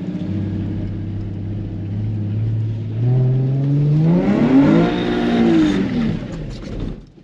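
Nissan 350Z's 3.5-litre V6 running steadily, then revving up about three seconds in, climbing to a peak and falling away again near the end, with a hiss rising alongside the high revs. This is a rev-up in a drift attempt on rain-slick pavement.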